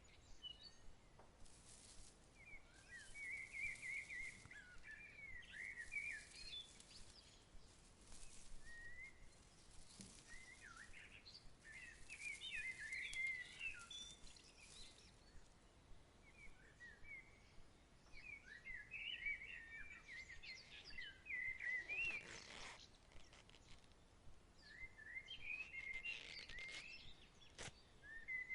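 Songbirds chirping and twittering faintly in scattered bursts of short calls, over a soft outdoor background hiss. A brief rustle comes about two-thirds of the way through, and a single sharp click near the end.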